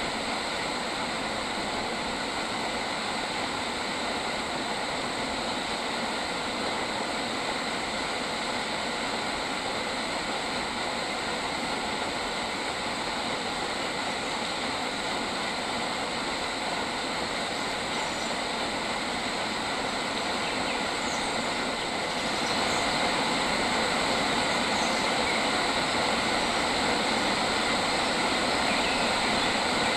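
Steady outdoor nature ambience: a dense, even hiss with a faint steady high drone in it, getting a little louder about 22 seconds in.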